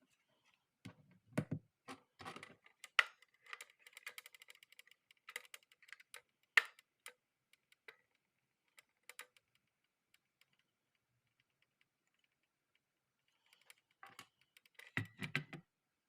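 Hard plastic clicking and rattling as a handlebar phone holder is handled, with a few dull knocks. One busy run of clicks is followed, after a quiet stretch, by a second short burst near the end.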